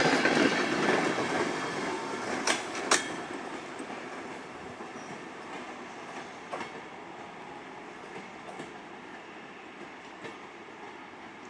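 Passenger coaches of a departing train rolling past at low speed, their wheels clicking over the track joints, with two sharp clicks about two and a half seconds in. The rolling sound fades steadily as the last coach pulls away.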